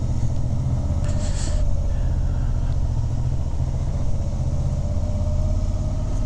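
Suzuki V-Strom motorcycle engine running at low revs while the bike is ridden slowly, a steady low rumble with a faint steady whine above it. A brief hiss comes about a second in.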